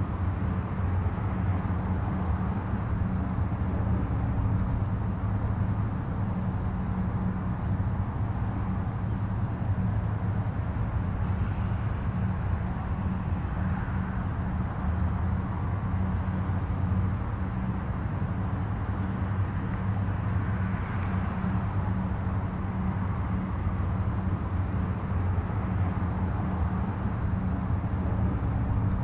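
Distant highway traffic: a steady low rumble of tyres and engines, with a passing vehicle swelling slightly louder now and then. A faint, high, rapid pulsing sits over it throughout.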